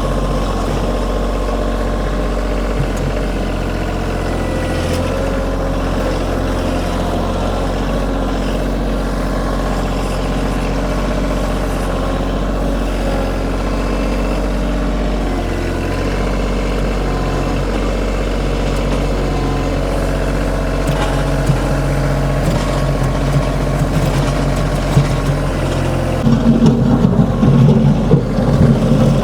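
Kioti compact tractor's diesel engine running steadily, turning louder and rougher about three seconds before the end.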